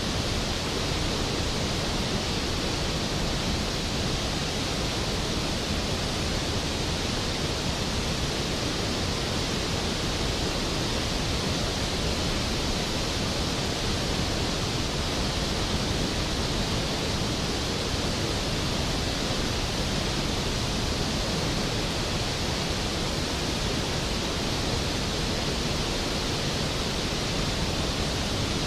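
Skógafoss waterfall: a large volume of water falling and crashing into its plunge pool, a loud, steady, unbroken roar of rushing water.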